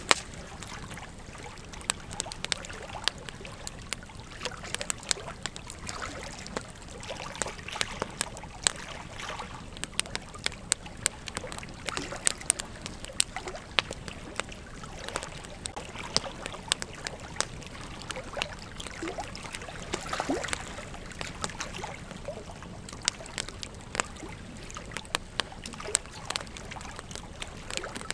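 Campfire burning, crackling with frequent sharp, irregular pops over a steady hiss.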